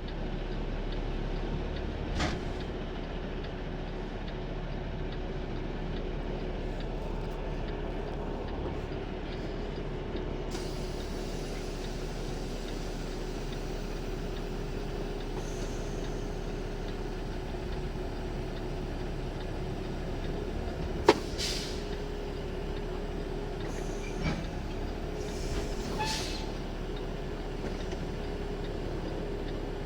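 Semi truck's diesel engine running with a steady drone and rumble while the trailer's tandem axles are slid. There is one sharp knock about two-thirds of the way through, and a few lighter knocks after it.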